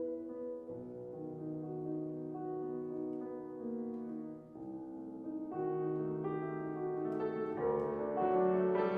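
Solo piano playing classical music: soft, held notes and chords, a brief lull about halfway, then the playing grows louder and climbs higher toward the end.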